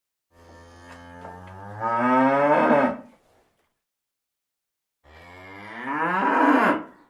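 A cow mooing twice. Each long moo starts low and quiet, rises in pitch as it grows louder, then stops abruptly.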